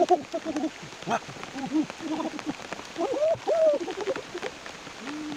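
Rain falling steadily, with scattered drop ticks. Over it come short rising-and-falling voice-like sounds, about a dozen syllables, clustered a few seconds in.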